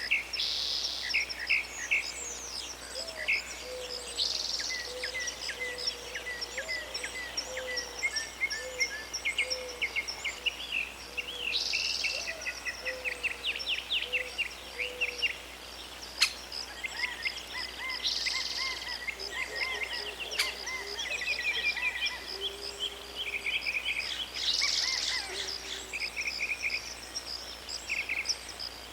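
Several birds singing and chirping together in a dense, overlapping chorus of short high chirps and trills, with a louder burst of song every six or seven seconds and a lower, softer run of repeated calls in the first half. Two sharp clicks stand out around the middle.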